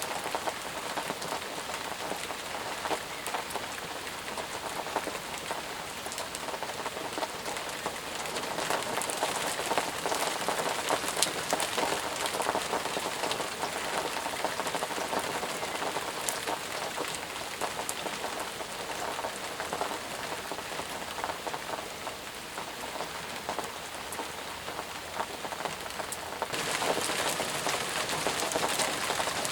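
Steady rain falling, a dense patter of many drops. A little over three-quarters of the way through, the rain abruptly turns brighter and a bit louder.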